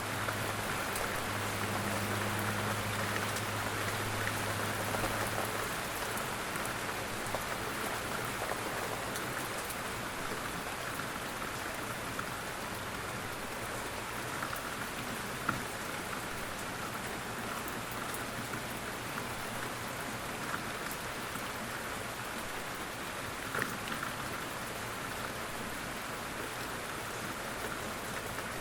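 Quiet, steady rain falling in an even hiss, with a few sharper drop ticks landing close by. A faint low hum sits under it for the first few seconds.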